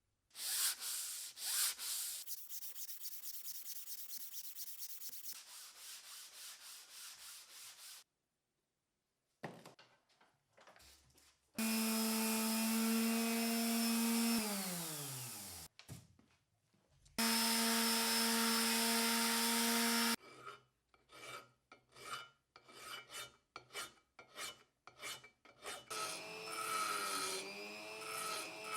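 Hand filing on a cast bench vise: rhythmic rasping strokes. A small electric tool motor then runs at a steady pitch and winds down with falling pitch, runs again and stops abruptly. Short scraping strokes follow, with a wavering tone near the end.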